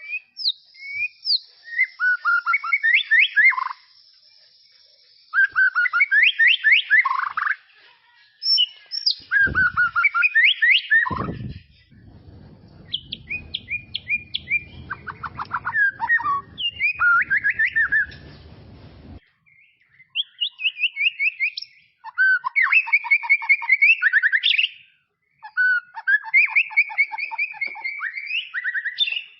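White-rumped shama (murai batu) singing: bursts of rapid, falling whistled notes and trills, phrase after phrase with short pauses between. A low rumbling noise runs under the song for several seconds in the middle.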